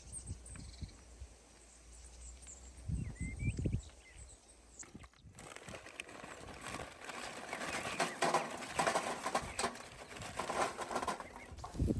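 Outdoor ambience with small birds chirping faintly and a few low thumps. After about six seconds a louder stretch of busy rustling, flapping-like noise takes over.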